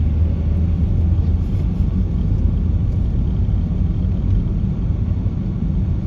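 Steady low rumble of a people carrier driving, heard from inside the cabin: engine and road noise.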